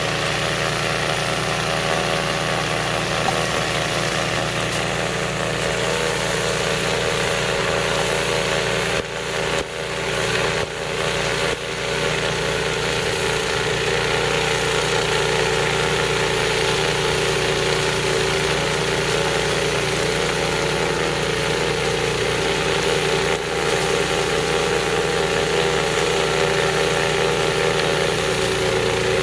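Gasoline snowblower engine running steadily while clearing snow, its level dipping briefly a few times about ten seconds in.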